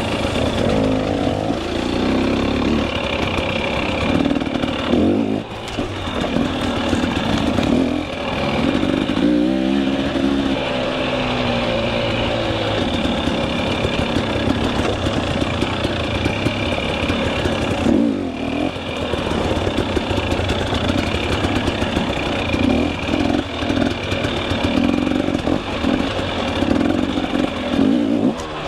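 KTM 300 EXC two-stroke single-cylinder dirt bike engine running under load on a rough trail, the revs rising and falling constantly as the throttle is worked, with a few brief drops when the throttle is shut off.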